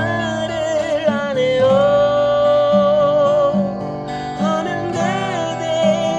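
Acoustic guitar strummed under a singing voice that holds long, wavering notes.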